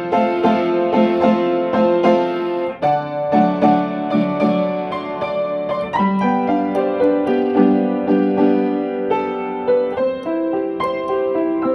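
Solo piano or electric piano music, a slow melody over sustained chords with repeated notes.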